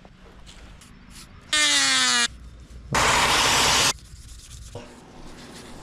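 Two short, loud rasping scrapes about a second apart, each lasting under a second and starting and stopping abruptly; the first has a downward-sweeping pitch.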